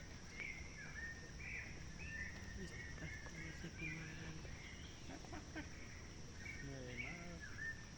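Birds calling in short repeated chirps, one or two a second, over a steady high-pitched insect drone.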